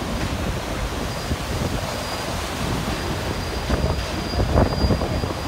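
Passenger train running along the track, heard from an open car: a heavy rumble of wheels on rail under a steady rush of wind on the microphone, with a faint high whine and a few sharp knocks about four seconds in.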